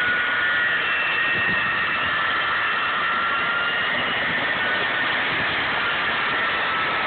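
Jet aircraft engine noise at an airshow, a steady rushing sound with high whining tones that slowly drift lower.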